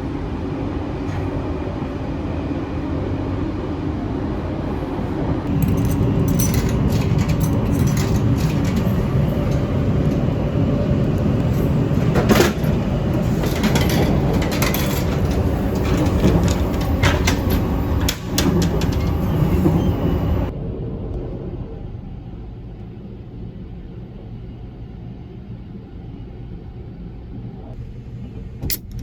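Sunrise Izumo sleeper train running along the line: a steady rumble of wheels on rail. From about five seconds in it grows louder, with rapid clicking and rattling, then drops back to a quieter rumble about two-thirds of the way through.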